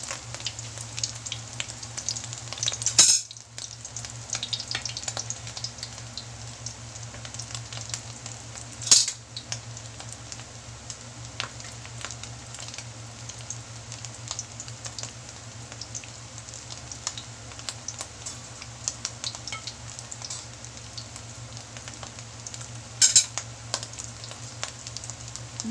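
Alamang (tiny shrimp) omelet patties frying in hot oil in an aluminium wok: a steady sizzle full of small crackles and pops. Three brief, louder bursts stand out, about three, nine and twenty-three seconds in.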